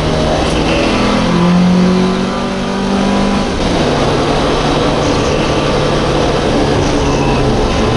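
Race-prepared MGB's 1.8-litre B-series four-cylinder engine heard from inside the car, running hard; its note steps down about a second in and again about three and a half seconds in, then holds steady.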